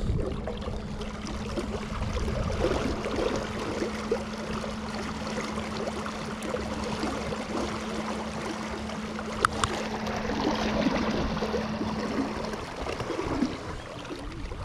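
Water gurgling and splashing around a small boat moving through the water, over a steady low hum from an electric trolling motor that cuts off near the end. A single sharp click about two-thirds of the way through.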